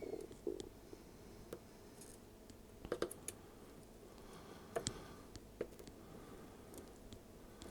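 Faint, scattered small clicks and taps of a hand tool against a circuit board as a surface-mount chip is nudged into place on its pads. The loudest taps come in a short group about three seconds in and again near five seconds.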